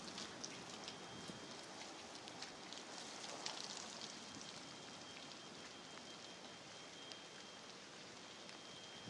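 Heavy rain falling steadily, a dense even hiss with many separate drops pattering on surfaces.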